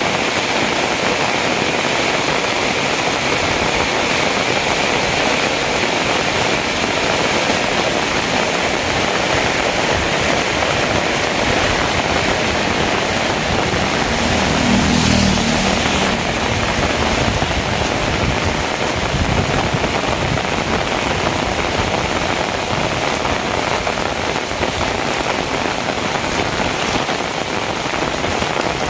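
Heavy rain falling steadily, with a low rumble swelling and fading about halfway through.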